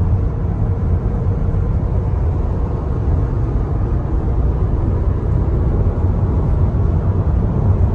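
A car driving at highway speed: a loud, steady rush of wind and road noise with a low rumble.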